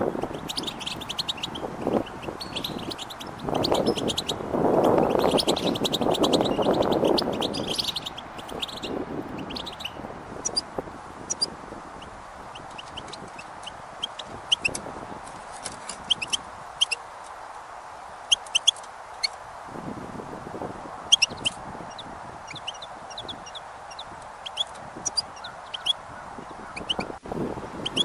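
Small birds chirping: a dense run of high chirps over the first several seconds, then scattered short, sharp chip notes. A louder lower rushing noise swells for a few seconds near the start.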